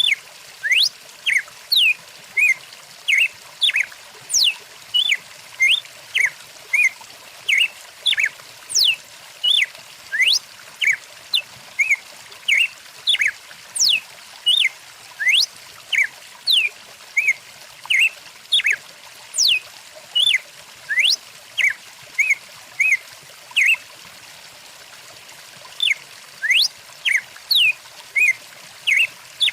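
Birds chirping in short, sharp calls that sweep steeply in pitch, about one or two a second, falling silent for a few seconds in the last third. Under them runs the steady rush of a flowing stream.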